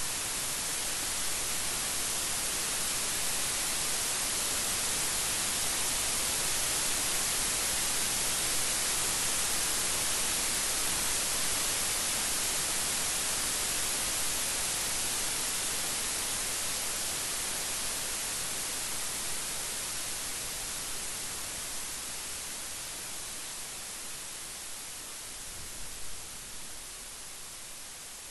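Steady rain hiss, even and without pattern, slowly growing quieter over the second half, with a brief faint knock near the end.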